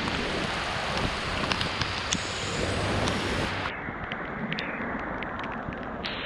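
Heavy rain pouring down, an even hiss with many sharp taps of drops striking close by, over a low rumble of wind on the microphone. About halfway through, the hiss turns duller as its highest part drops away.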